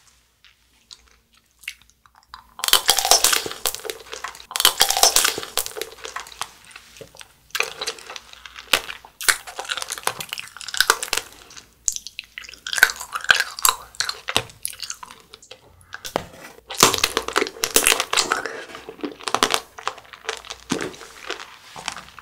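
Crunching and chewing of a strawberry tanghulu, the hard sugar-candy shell cracking between the teeth, in repeated bouts that start about two and a half seconds in.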